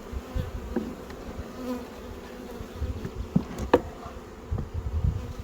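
Honeybees buzzing steadily around an open hive being worked, with low rumbling handling noise and a couple of sharp knocks about three and a half seconds in.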